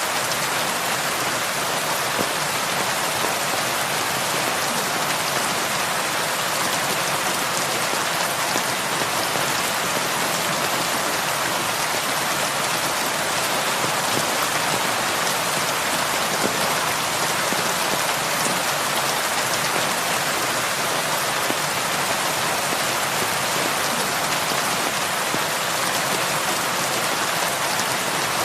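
Heavy rain falling steadily on a cabin roof, an even hiss with no let-up, with faint scattered ticks over it.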